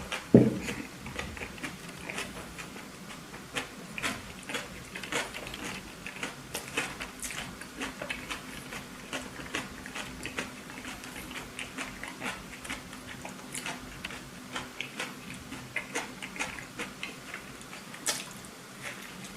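Close-miked chewing of a burger: a run of small wet clicks and smacks from the mouth, a few each second, with a louder thump about half a second in.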